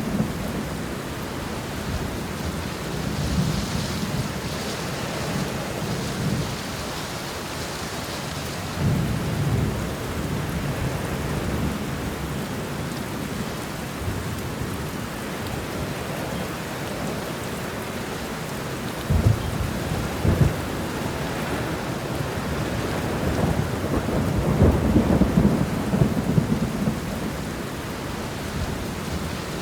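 Steady heavy rain hiss with thunder rumbling low underneath, swelling and fading several times. Two sharper thunder claps come close together about two-thirds of the way through.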